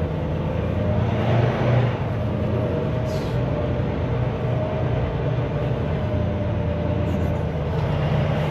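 Semi truck's diesel engine running steadily, heard from inside the cab as a low hum, with a short hiss about three seconds in.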